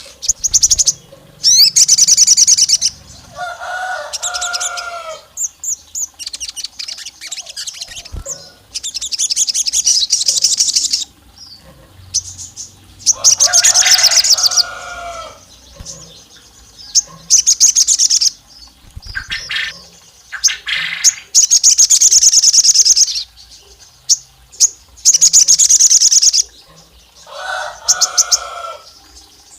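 A sogon songbird singing loud phrases of rapid, high chirping trills, each lasting one to two seconds with short pauses between. Some phrases carry lower, fuller doubled notes under the high trill.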